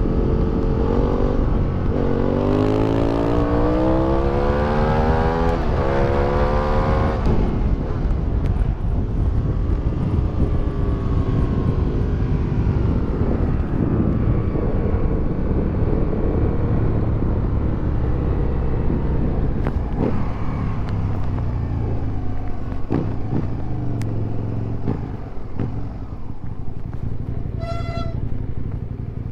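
2008 Aprilia Tuono 1000R's V-twin with an Akrapovic exhaust, accelerating hard with a rising note for several seconds, then shutting off about seven seconds in and running on at lower revs. A short electronic beep sounds near the end.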